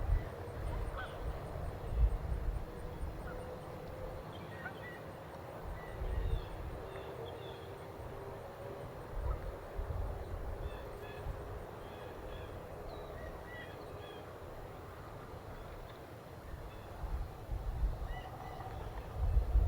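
Geese honking faintly, with small birds chirping in short calls here and there and intermittent low rumbling.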